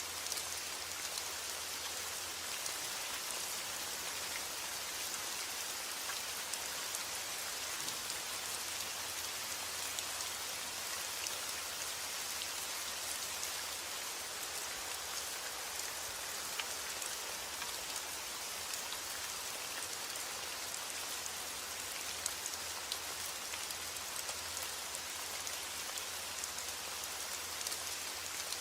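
Rain falling steadily: an even hiss with scattered faint ticks of individual drops, unchanging throughout.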